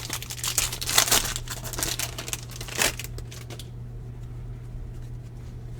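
Crinkling and rustling of a foil baseball card pack wrapper being handled, with a couple of louder crackles, settling down after about three and a half seconds. A steady low electrical hum runs underneath.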